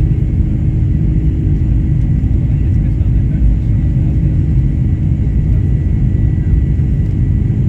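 Cabin noise of a Boeing 747-400 in flight: a steady, loud low rumble of its four jet engines and airflow, with a few steady low hums and a faint thin whine above them.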